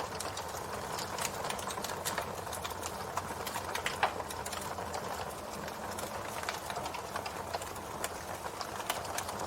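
Campfire crackling: irregular sharp pops and snaps from burning wood over a steady hiss of flame, with one louder pop about four seconds in.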